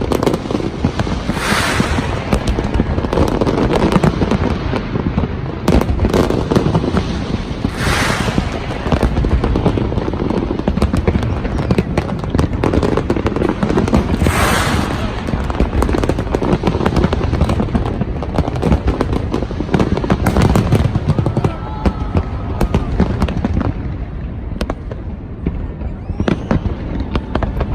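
Large fireworks display going off without a break: dense, rapid bangs and booms, with three bright bursts of crackle in the first half. The firing thins out near the end.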